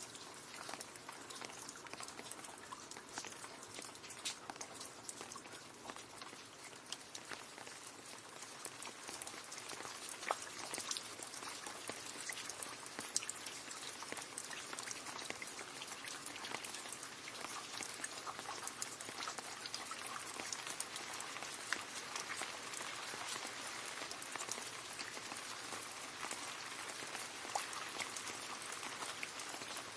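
Steady rain falling into a puddle: a dense patter of drops splashing on water, with the odd louder single drop standing out.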